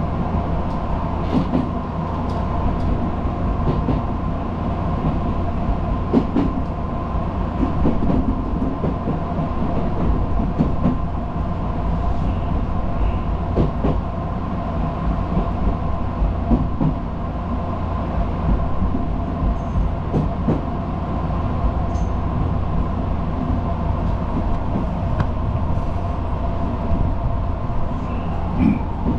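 Odakyu local electric train running on the Hakone line, heard from inside its driver's cab: a steady low rumble of wheels on rail under a constant hum, with scattered knocks every few seconds as the wheels pass rail joints and points.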